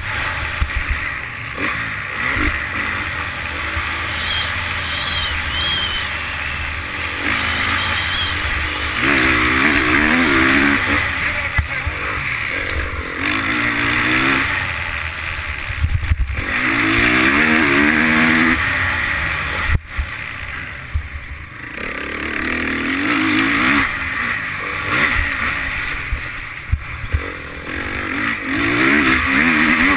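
Motocross bike engine heard on board, revving up and easing off again and again as it accelerates out of turns and shifts, over the rush of wind on the microphone.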